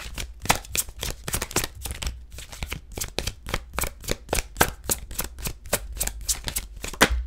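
A tarot deck being shuffled by hand: a fast, uneven run of card snaps and flicks, several a second, that stops near the end.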